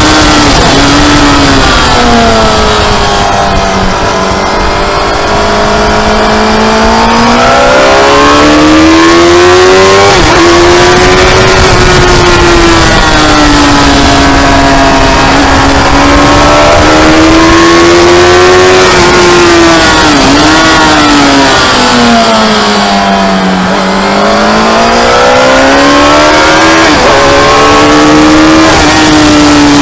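Motorcycle engine at racing speed on track, its note climbing and falling repeatedly as it accelerates and slows, with sudden jumps in pitch at gear changes, over a steady rush of noise.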